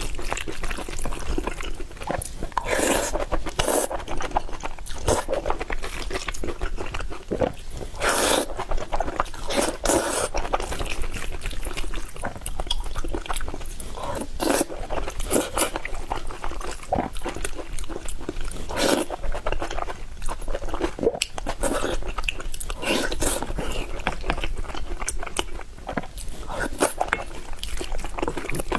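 A person eating noodles close to the microphone: chewing and biting with irregular wet clicks and crunches.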